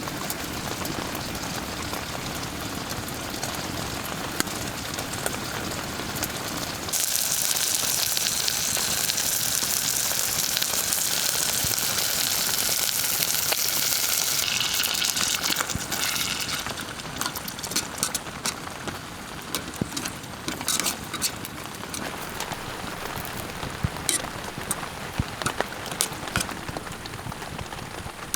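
Rain falling with a steady hiss. A louder, higher hiss cuts in abruptly about a quarter of the way through and dies down around the middle. After that, sharp taps of single drops stand out.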